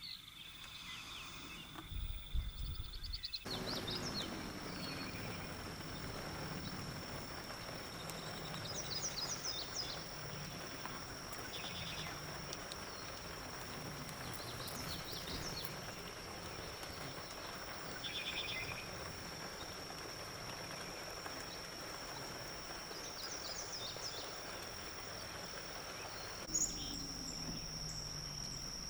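Wetland ambience: a steady, high-pitched insect drone runs throughout, with short chirping bird calls every few seconds. The drone jumps to a higher pitch about three seconds in.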